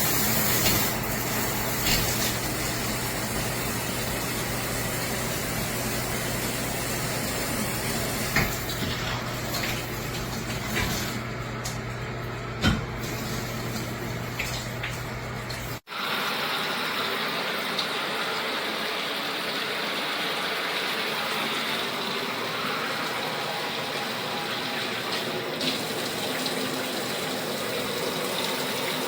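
Water spraying steadily from a showerhead, with a few light knocks. Partway through the sound cuts off for an instant and resumes with a slightly different character, as at an edit.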